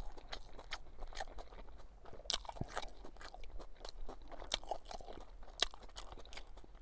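A man chewing a mouthful of sub sandwich, with irregular small mouth clicks and smacks.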